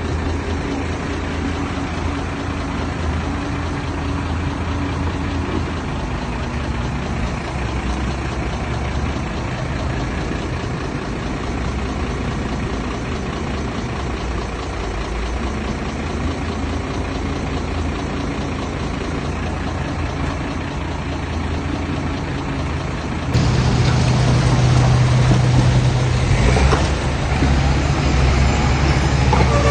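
Heavy diesel engines of earth-moving machinery, a dump truck or bulldozer, running steadily. About 23 seconds in the sound jumps abruptly louder, with a stronger, deeper hum.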